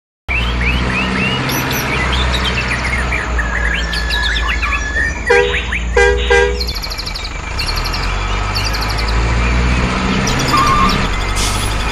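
Birds chirping and tweeting over a low steady rumble, with three short horn toots a little past the middle, the last two close together.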